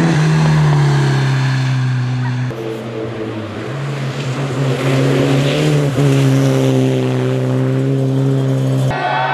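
Škoda 120 GLS rally car's rear-mounted four-cylinder engine running hard at high revs as the car passes and drives on along the stage. The note sags a little early on, dips briefly about three seconds in, then holds steady and strong.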